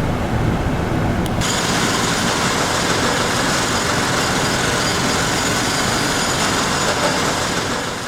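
Steady city traffic noise: vehicle engines and road rumble. About a second and a half in it suddenly becomes brighter and hissier.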